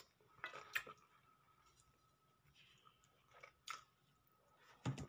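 Faint chewing and mouth sounds of someone eating rice and fried food with their fingers: a few short, soft smacks and clicks, the loudest near the end.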